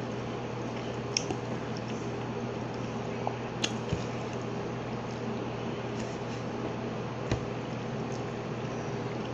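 Close-miked chewing and wet mouth sounds of someone eating baked chicken nuggets and lasagna, with a few sharp clicks, over a steady low hum.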